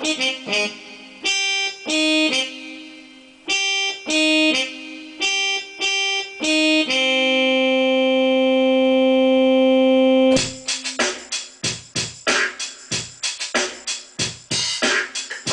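Keyboard instrument playing a melody: short separate notes, then a chord held for about three and a half seconds without fading, then a run of quick notes.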